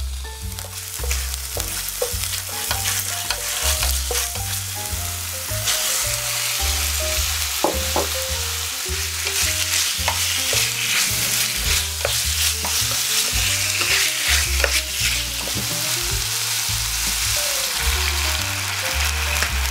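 Minced garlic, then cubes of beef shank, sizzling in oil in an enamel pot while being stirred with a spatula, with short scrapes against the pot. The sizzling grows louder and denser about five or six seconds in. Light background music with a bass line plays underneath.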